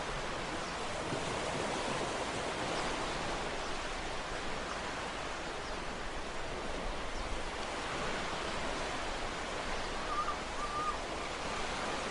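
Ocean surf washing steadily, a continuous hiss of water with no distinct wave breaks. Two faint, short wavering tones sound about ten seconds in.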